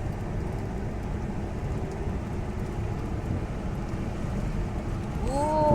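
Steady road and engine noise heard from inside a moving car's cabin: a low, even rumble.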